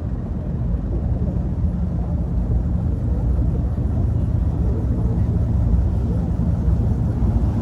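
Steady low rumble of car engines running at low speed, with no sharp events.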